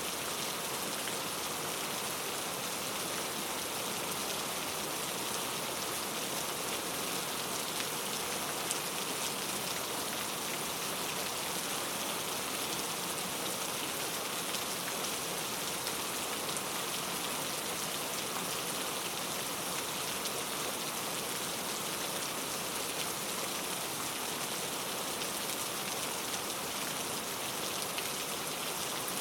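Steady rain falling, with the fine patter of drops on a surface and no changes or thunder.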